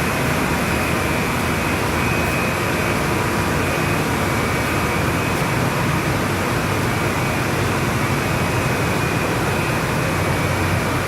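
Chain-grate steam boiler plant running: a steady rush of air and machinery with a faint, constant high whine.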